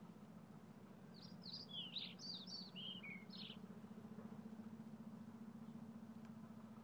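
A songbird sings a quick run of high, varied chirping notes for about two seconds, starting about a second in, over a faint steady low hum.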